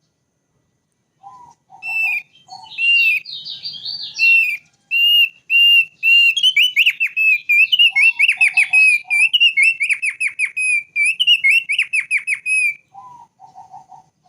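A thick-billed heleia (opior paruh tebal) singing a fast run of high whistled notes and trills. Short groups of three or four lower notes come at the start and again near the end.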